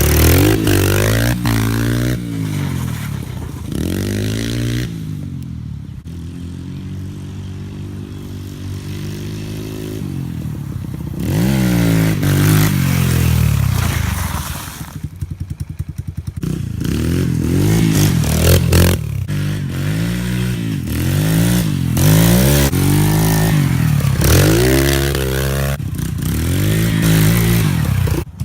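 Yamaha TT-R125 dirt bike's small four-stroke single-cylinder engine being ridden, revving up and falling back again and again as it is shifted through the gears, with a steadier lower-pitched run about a third of the way in and a brief drop-off around the middle.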